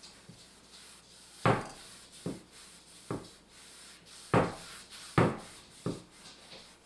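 An old wooden kitchen piece knocking against a tabletop about six times at uneven intervals while a beeswax and linseed oil finish is rubbed into it, with faint rubbing between the knocks.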